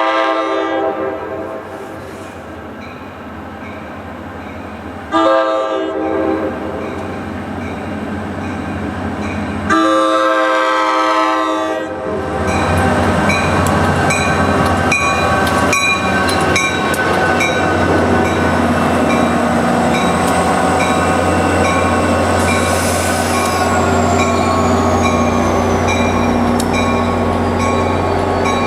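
Train horn sounding its grade-crossing pattern: a long blast ending about a second in, a short one about five seconds in, and a long one from about ten seconds. The train then passes close, its engine and wheel noise running loud and steady, with a falling whine about halfway through the pass.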